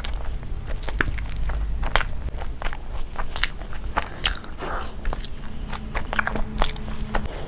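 A person chewing a mouthful of burger close to the microphone, with irregular wet mouth clicks and crunches.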